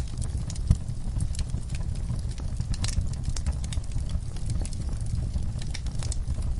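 Fire in a fireplace crackling and popping over a steady low rumble of flames, with a sharp pop about two-thirds of a second in and a cluster of crackles around three seconds in.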